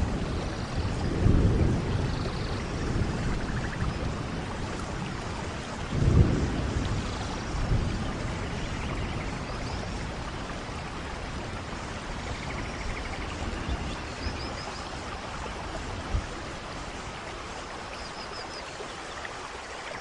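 Steady rain with low rolls of thunder, strongest about a second in and again around six seconds in, fading to a steadier rain sound in the second half.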